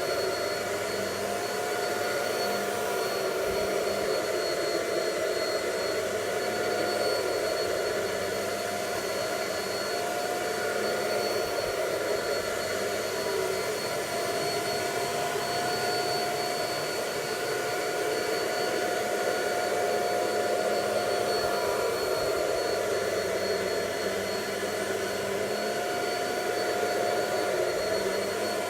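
Bissell pet vacuum cleaner running steadily as it sucks cornstarch out of a carpet, a constant motor whine over airflow noise.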